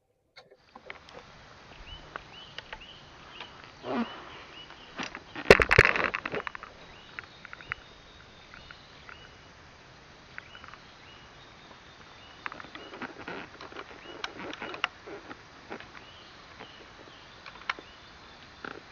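Outdoor ambience in a plantation, full of repeated short high chirps from birds or insects and scattered small clicks. About five and a half seconds in comes a loud burst lasting about a second, the loudest sound here, whose source can't be told.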